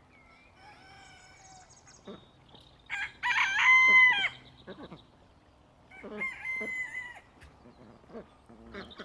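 Rooster crowing: a loud crow about three seconds in that holds its pitch and drops away at the end, then a second, quieter crow about six seconds in, with fainter bird calls before them.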